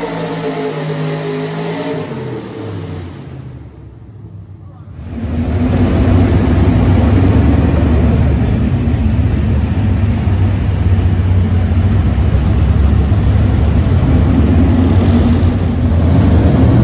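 Small-block V8 engine of a four-wheel-drive pulling truck, its pitch falling away and quietening over the first few seconds. At about five seconds it comes in loud and holds steady at high revs under load.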